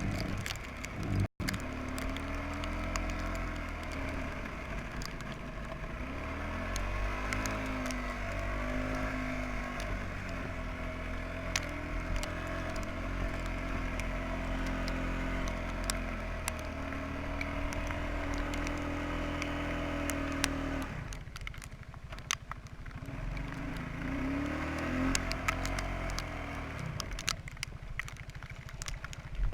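Quadrunner 300 ATV engine running, its pitch rising and falling as the throttle is worked several times, then quieter for a few seconds near the end before picking up again.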